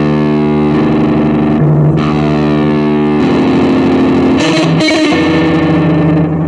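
Distorted electric guitar music playing sustained chords that change about every second.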